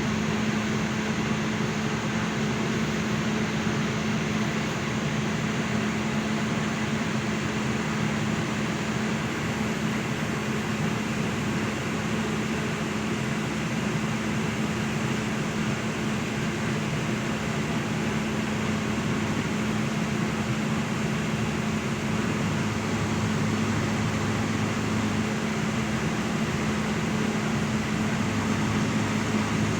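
An engine running steadily: a constant hum under an even rushing noise, with no change in speed.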